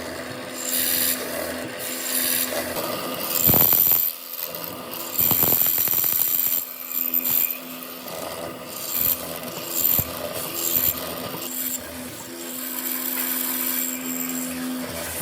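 Wood being worked with tools: rough rasping and scraping against wood, over a faint steady hum, growing louder for a couple of short spells a few seconds in.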